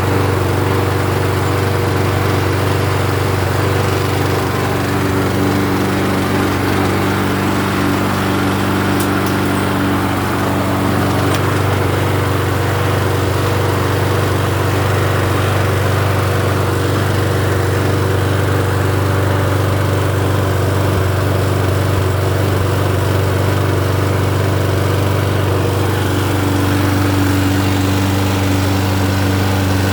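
Toro recycler lawn mower's 163cc single-cylinder engine running steadily. Its pitch shifts slightly about ten seconds in and again near the end.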